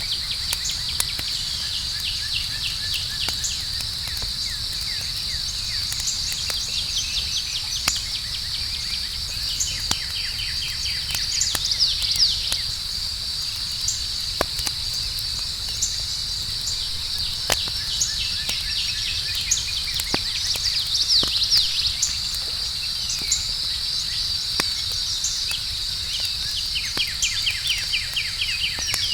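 Campfire crackling with scattered sharp pops, over a steady, high chirring of crickets at night. A few rapid chirping trills come through, about twelve seconds in, around twenty-one seconds and near the end.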